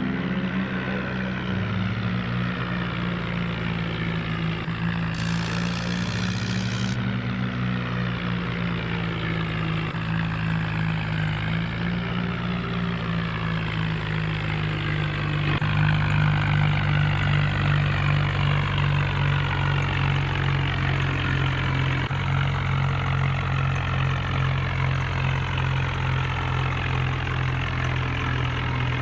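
Tractor engine running steadily, its speed shifting up and down a few times and louder from about halfway through.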